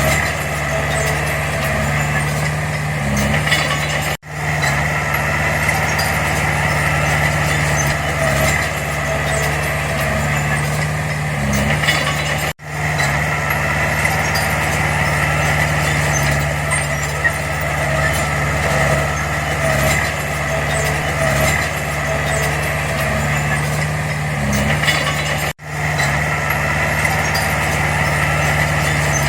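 Heavy diesel earthmoving machinery running steadily, a deep engine drone with a thin, steady whine above it. The sound breaks off abruptly three times and comes straight back.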